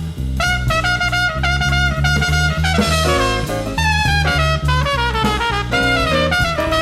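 Live small-group jazz: a horn plays a flowing melodic line over a walking double bass, heard from an off-air cassette recording of an FM broadcast.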